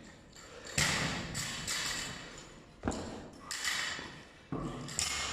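Irregular heavy thuds and knocks, about five of them, each echoing in a large room.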